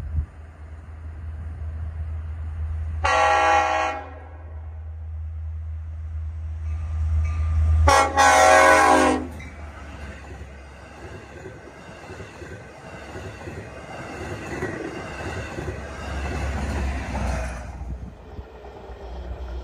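Long Island Rail Road train at a grade crossing. The locomotive horn sounds two loud chord blasts about five seconds apart, the second one longer, over the low drone of the approaching locomotive. Then the bi-level coaches rumble and clatter past on the rails, fading near the end.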